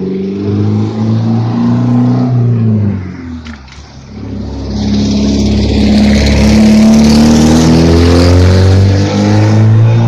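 A car with a loud exhaust revving and accelerating, its engine note rising and falling. It eases off about four seconds in, then comes back louder and holds until it cuts off suddenly at the end.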